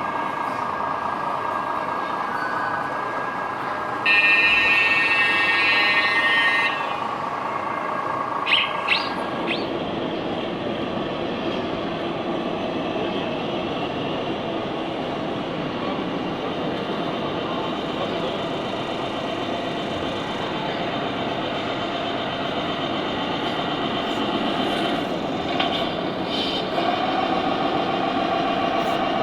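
Radio-controlled scale model trucks running, their sound modules giving a steady truck-engine sound, with a loud horn-like blast lasting about two and a half seconds, about four seconds in.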